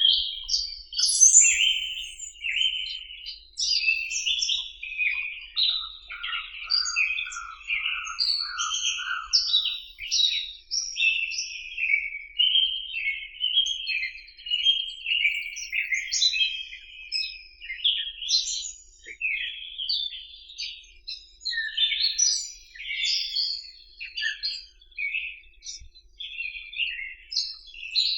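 Many small songbirds chirping and whistling over one another in a dense, unbroken chorus, with a lower, repeated burry call of about six notes from about six to ten seconds in.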